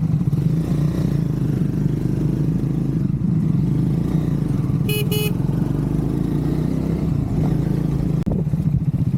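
Triumph Scrambler 400 X's single-cylinder engine running steadily on the move, with a horn beeping twice in quick succession about five seconds in.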